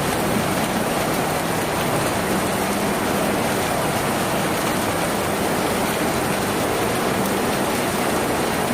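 Steady, dense rain drumming on a tin roof, an unbroken loud hiss of drops with no let-up.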